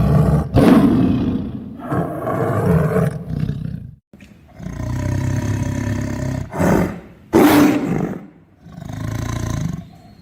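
Tiger roaring and snarling: a series of five or six loud roars one after another, with a short break about four seconds in.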